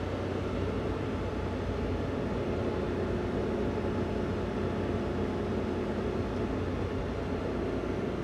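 Daihatsu Hijet kei van's engine, with stock intake and exhaust, running at a steady, even speed while driving, with road noise underneath.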